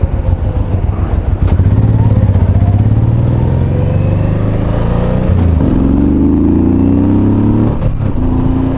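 Motorcycle engine running under way, revving up about a second and a half in and then pulling steadily with a slowly rising note.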